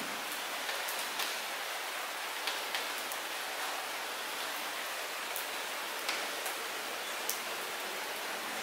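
Light rain falling: a steady hiss of rain with scattered sharp, irregular taps of single drops.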